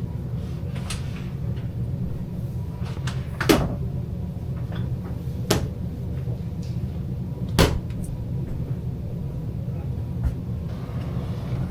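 Three sharp knocks of RV cabinet doors being shut, about two seconds apart, over a steady low hum.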